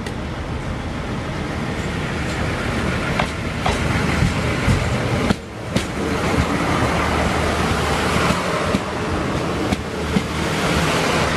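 Irish Rail diesel multiple unit passing close by. Its engines drone under a steady rumble of wheels on rail, growing louder as it approaches, with a few sharp clicks from the wheels on the track.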